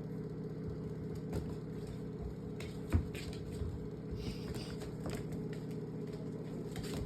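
A motor runs steadily with a low hum, under scattered light clicks and knocks and one louder thump about three seconds in.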